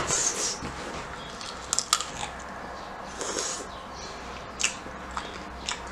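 A pickle being bitten and chewed close to the microphone: several short, sharp crunches spaced a second or so apart, with wet chewing between them.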